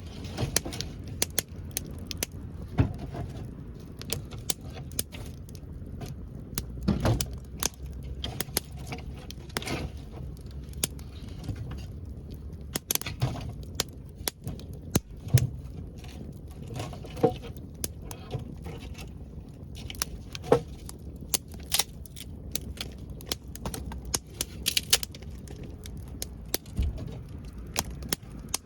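Wood fire burning, crackling with irregular sharp pops, some louder than others, over a low steady hiss.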